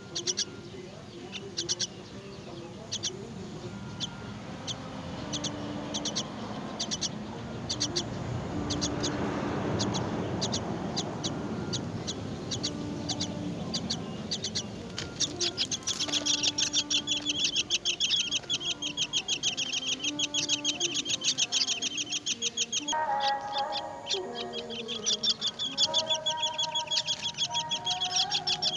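Nestling birds begging with rapid, high-pitched chirps, scattered at first and then a dense, loud run from about halfway through. A lower, rougher call joins in near the end.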